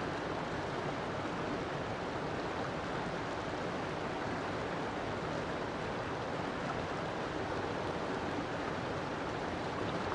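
River water flowing steadily over rocks, a continuous even rush with no let-up.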